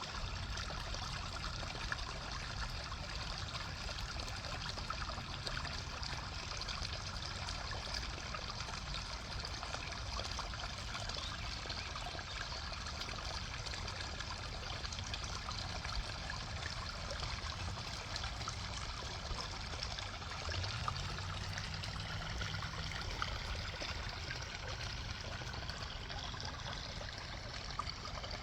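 Small forest brook flowing steadily, its water babbling and trickling over rocks in an even, continuous rush.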